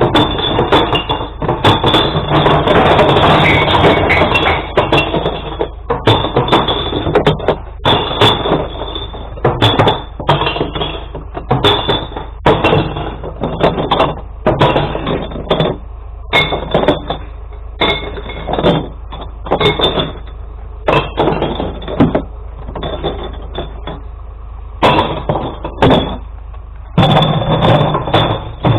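Glass bottles and jars crashing and smashing as a load of glass recycling is tipped into a glass-collection truck. A dense clatter comes first, followed by a string of separate sharp crashes and knocks with short pauses between them.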